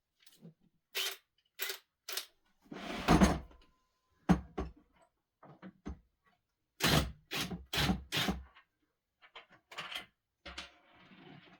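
A string of sharp knocks and clatters from objects being handled in a small room, with a louder scraping rush about three seconds in.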